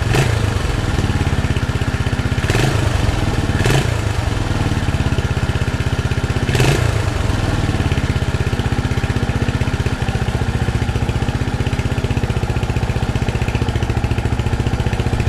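1980 Honda XL250S single-cylinder four-stroke engine running steadily at a constant speed, its timing chain and tensioner newly replaced, with no chain rattle. A few short, sharp sounds stand out over it in the first seven seconds.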